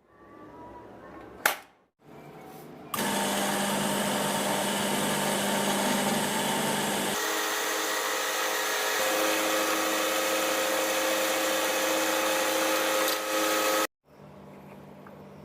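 A small electric power tool running steadily for about ten seconds, then cutting off abruptly. Its motor pitch shifts once partway through. A sharp click comes shortly before it starts.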